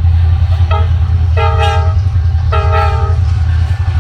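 Norfolk Southern locomotive's multi-note air horn: a short toot about a second in, then two longer blasts. Under it runs the steady, loud low rumble of the train.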